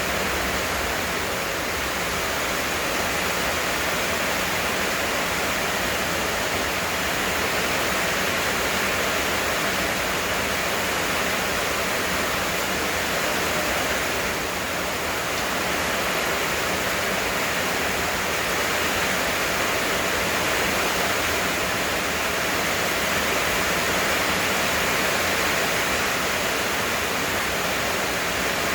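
Heavy rain falling in a steady downpour, an even hiss that dips slightly for a moment about halfway through.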